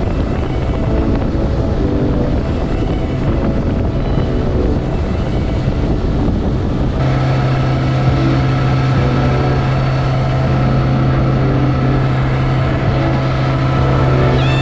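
Motorboat under way, its engine running steadily with wind noise.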